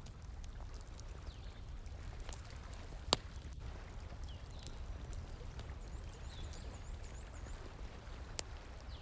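Campfire crackling, with scattered small ticks and two sharp pops, over a steady rush of flowing water. Faint high chirps come through now and then.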